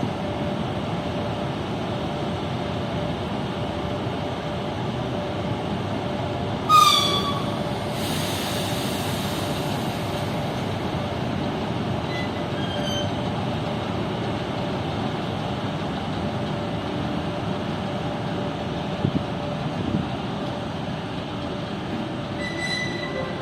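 EP1 electric locomotive moving off along the station tracks: a steady rumble with a constant hum. About seven seconds in comes a short shrill squeal or whistle, followed by a burst of hissing that fades out over a few seconds.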